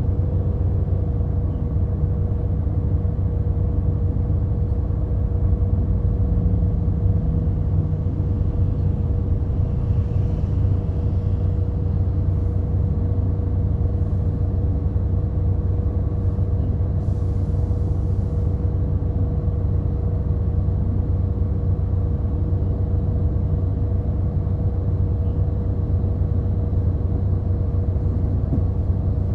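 Inside a route bus on the move: steady low rumble of the engine and road with a constant hum. A brief hiss about two thirds of the way in.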